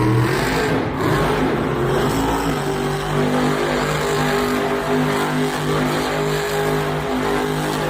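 Monster truck engine at high revs during a donut spin. The pitch wavers for the first two seconds or so, then holds high and steady with a slight pulsing.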